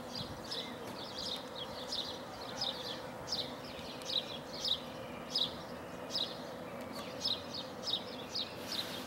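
Small birds chirping: short, high, down-slurred chirps in loose series, about two a second, over a steady faint hum.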